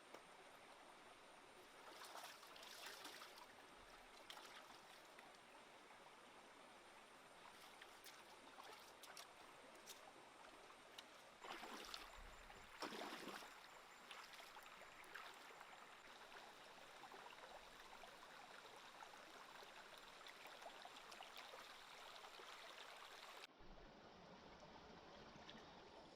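Faint, steady trickle of a small stream, with two short louder swells of water noise about two seconds and twelve seconds in.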